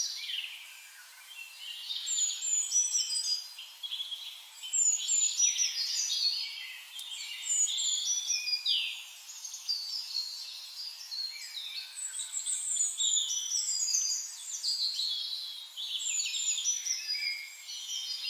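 A flock of small birds chirping and calling together: many quick, overlapping, high-pitched chirps that slide downward, coming in clusters throughout.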